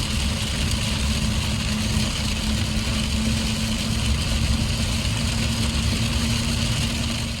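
An engine running steadily, with a low rumble and a steady hum, cutting off suddenly at the end.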